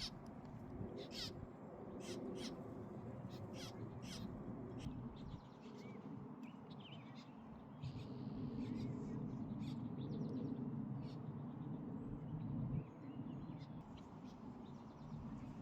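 Birds calling: a run of short, sharp chip notes, thickest in the first few seconds, over a steady low rumble.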